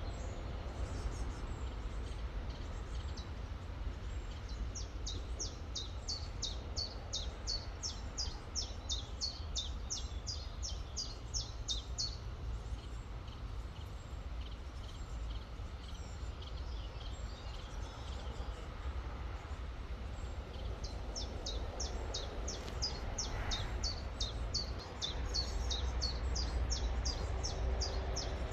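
Steady rushing of river water, with a songbird singing long runs of quick, high, repeated notes, each sweeping downward. The runs come twice: from a few seconds in to about the middle, and again for most of the last third.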